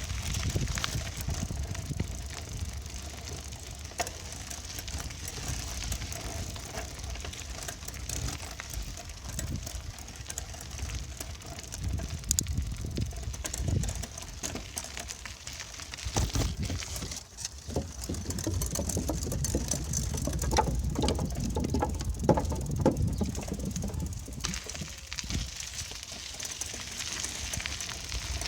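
Bicycle being ridden: rolling tyre and drivetrain noise over a low rumble, with many small clicks and rattles.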